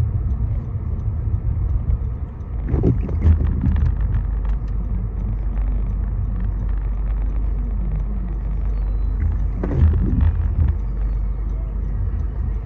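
Steady low rumble of a car driving on the road, with scattered light ticks and two louder swells, about three and ten seconds in.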